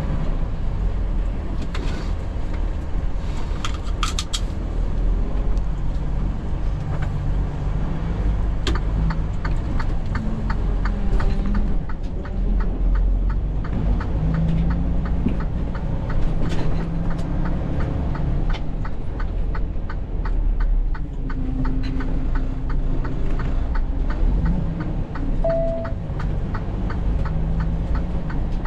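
Semi-truck engine and road noise heard from inside the cab while driving, a steady low rumble. A run of regular clicks comes in near the middle and goes on through most of the second half.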